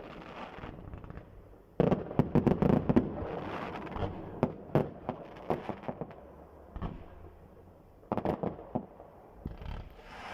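Fireworks going off: volleys of sharp cracks and bangs, in dense clusters about two seconds in and again around eight seconds, with scattered pops and a rumbling echo between.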